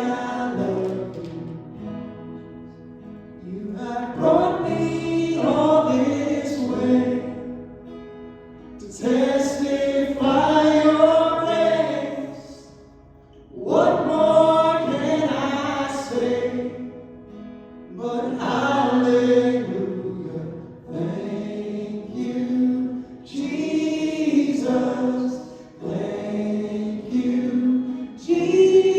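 Several voices singing a slow gospel song together, in long phrases of a few seconds each with short breaths between.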